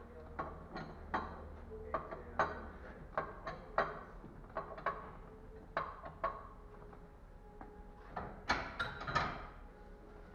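Irregular metallic clicks and knocks of hand tools working on metal car parts, a few a second, with a burst of louder knocks about eight seconds in.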